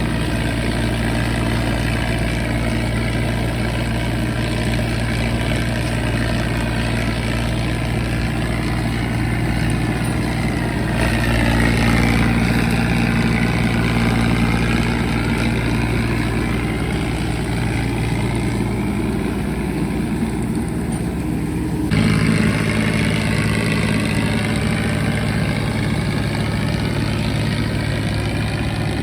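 John Deere 5039 tractor's diesel engine running steadily, with a shift in its tone about eleven seconds in and an abrupt change again about twenty-two seconds in.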